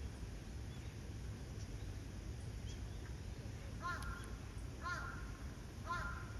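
A bird calling three times, about a second apart, each call short with several pitches stacked, over a steady low background rumble.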